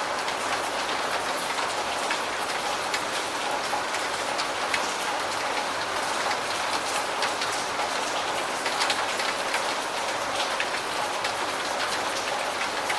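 Steady rain falling, a continuous hiss with many individual drops ticking sharply on a surface.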